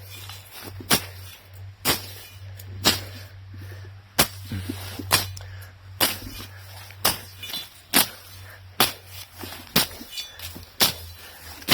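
Machete hacking at woody brush: about a dozen sharp strokes, roughly one a second.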